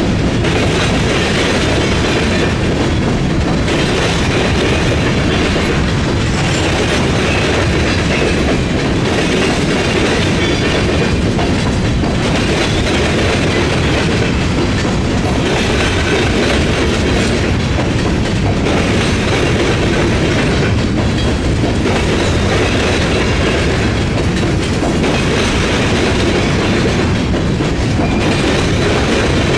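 Freight train rolling steadily through a railroad diamond, its car wheels clattering over the crossing in a repeating pattern that comes back every two to three seconds as each car passes.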